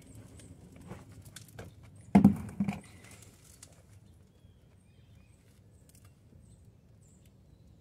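Rustling, crackling soil and tangled roots as sweet potatoes are dug out of a container by hand, with two loud crunches about two seconds in. The rest is quieter, with only faint background.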